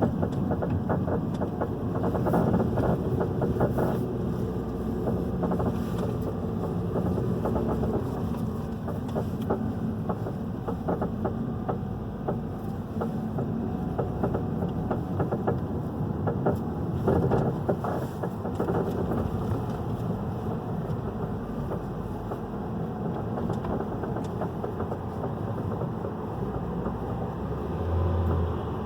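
A 2011 Hyundai i30 2.0 being driven, heard from inside the car: steady road and engine noise with repeated creaking and knocking from the suspension. The mechanic traces this noise to a stabilizer (sway bar) link.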